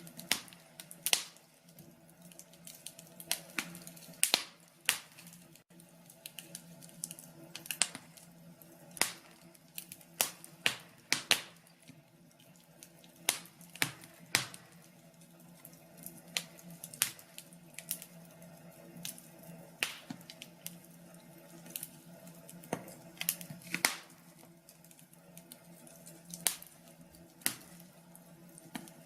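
Wood fire crackling: irregular sharp pops and snaps, sometimes several close together, over a faint steady hum.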